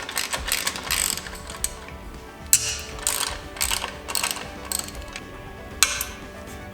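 Hand ratchet wrench clicking in short, irregular bursts as fasteners are undone during a dirt bike teardown, with faint background music.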